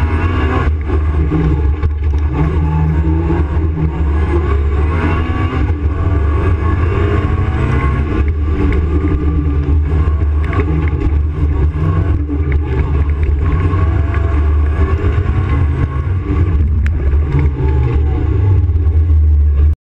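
Opel Kadett C race car's engine heard from inside the cabin, revving hard and repeatedly rising and falling in pitch as it accelerates and shifts through a slalom, then cutting off abruptly near the end.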